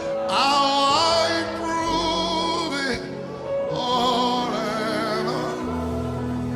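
Slow worship music: a singer holds long notes with wide vibrato in two phrases over sustained keyboard chords.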